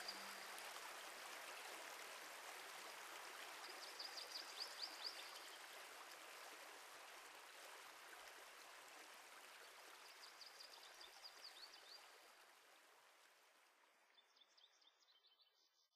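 Faint running stream or brook, slowly fading out, with short runs of high chirps about four and ten seconds in.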